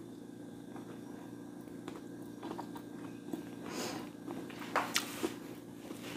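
Close-miked eating sounds: chewing with scattered wet clicks and smacks, a louder crunchy burst a little under four seconds in and a few sharp clicks around five seconds, over a steady low electrical hum.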